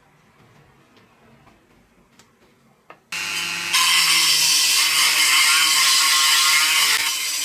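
A small power tool switched on about three seconds in and running steadily, with a steady whine and a strong hiss. It gets louder and hissier about half a second after starting, then eases a little near the end.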